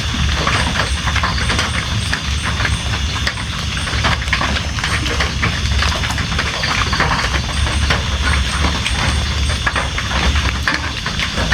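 Steady heavy rain, a dense run of drops striking close by over a low rumble.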